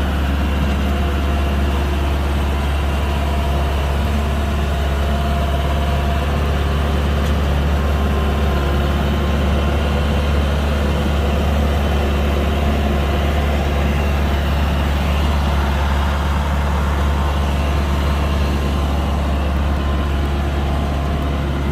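Kubota DC-105X combine harvester's diesel engine running at a steady speed, with a deep constant hum.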